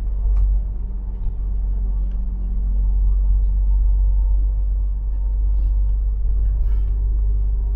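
A bus engine and its tyres on the road, running in a steady low rumble with a faint engine hum.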